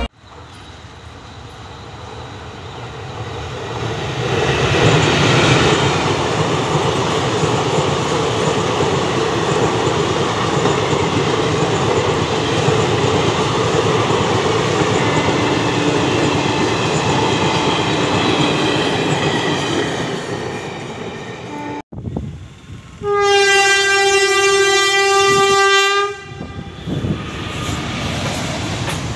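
A passing train's running noise and wheel rumble swells over the first few seconds and then holds steady. After an abrupt break, a locomotive horn sounds one long blast of about three seconds. The train's rumble continues more quietly afterwards.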